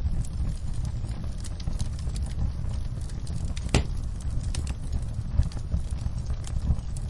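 Wood fire crackling: a steady low rumble of flames with scattered sharp pops and snaps, one louder pop near the middle.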